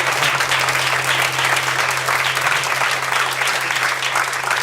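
Audience applause right after a song ends, dense clapping with a steady low tone held underneath.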